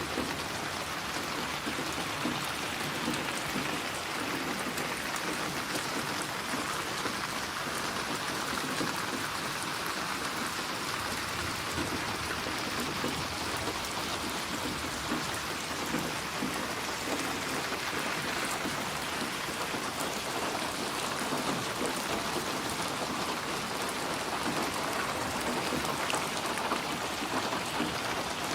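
Steady rain falling: an even hiss of many drops, with no thunder.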